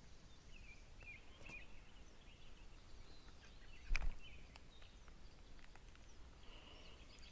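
Faint birdsong over quiet outdoor ambience, with one sharp knock about four seconds in.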